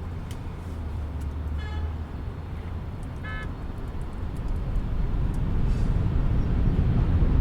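Jet engines of an Alaska Airlines Boeing 737-900 on its takeoff roll, a low rumble growing steadily louder. Two short horn-like toots sound about a second and a half apart early on.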